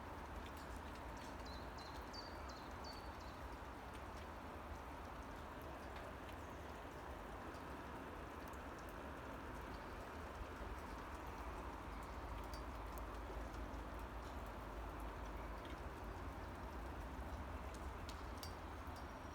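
Steady rain falling, with a few short bird chirps about two seconds in and a low rumble underneath.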